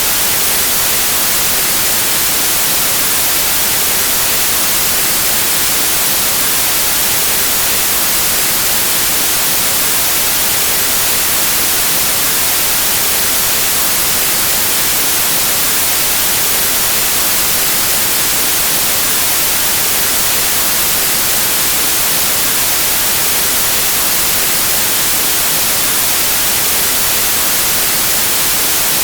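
Pure white noise: a steady, unbroken static hiss, even across the whole range and without any change.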